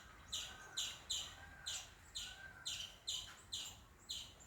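A small bird chirping over and over, a short, sharp, high call about twice a second.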